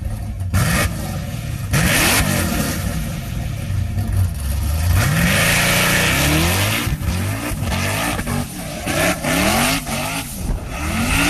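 Engine revving hard, its pitch climbing and dropping again several times.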